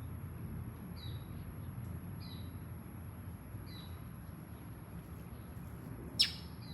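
Small bird chirping: three short, high chirps, each sliding down, about a second and a half apart, then one louder, sharper chirp near the end, over a low steady background rumble.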